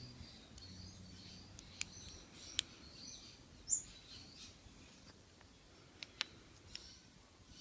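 Small birds chirping faintly in the background, broken by about half a dozen sharp clicks, the loudest a little past the middle, as a padlock and tools are handled.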